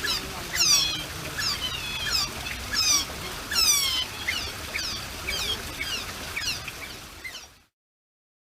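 Many short, high-pitched squeaks from small animals, each sliding downward in pitch, several a second and overlapping. They cut off suddenly near the end.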